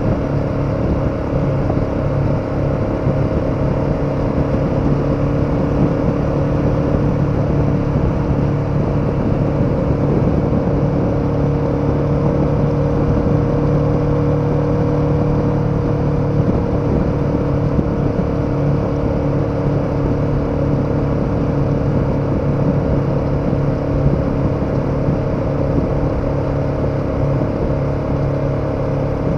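KTM 1290 Super Adventure's V-twin engine running at a steady speed while the motorcycle cruises, with wind and road noise.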